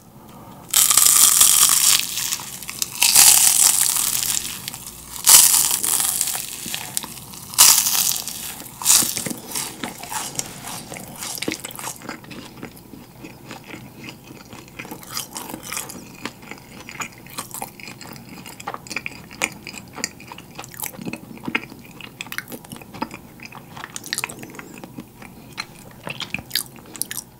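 Yugwa, a fried Korean rice confection coated in puffed rice, being bitten and chewed close to the microphone. There are loud crisp crunches through roughly the first twelve seconds, then quieter, steady chewing.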